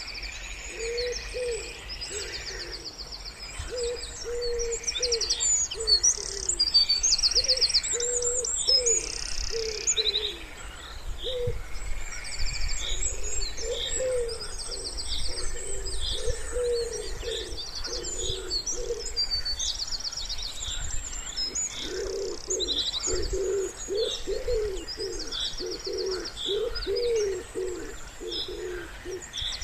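Wood pigeons cooing in low, repeated notes beneath the high, rapid trills and chirps of small songbirds. The low cooing grows denser about three-quarters of the way through.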